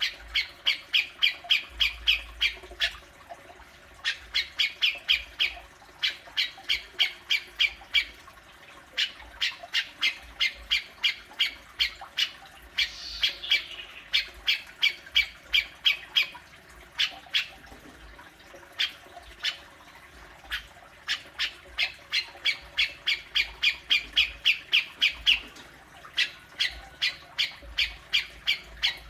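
Cucak jenggot (grey-cheeked bulbul) giving its besetan call: runs of short, sharp notes about four to five a second, in bursts of a few seconds separated by brief pauses.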